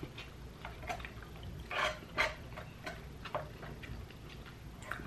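Close-miked eating sounds: soft wet chewing smacks and small clicks at uneven intervals, the loudest about two seconds in. Near the end a plastic fork scrapes inside a foam cup of noodles.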